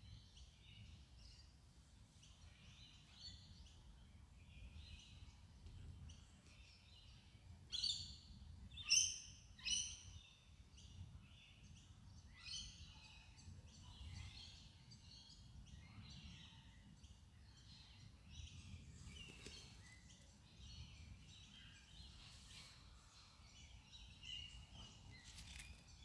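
Many small birds chirping and calling, with three louder calls about eight to ten seconds in, over a faint low background rumble.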